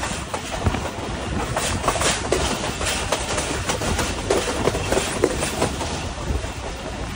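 Passenger train running along the track: a steady rumble and hiss with many irregular clicks and knocks of the wheels clattering over the rails.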